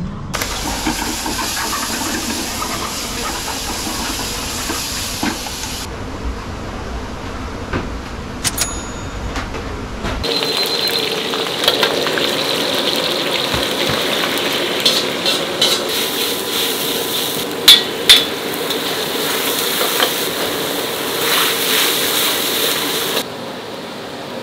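Commercial kitchen cooking: food frying and sizzling, with utensils and dishes clinking and two sharp knocks a little past the middle. The background changes abruptly several times.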